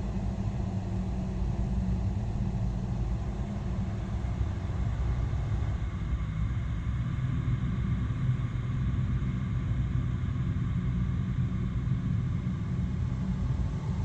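Horror basement ambience: a steady low rumbling drone. The higher part of the sound thins out about six seconds in, leaving mostly the deep rumble.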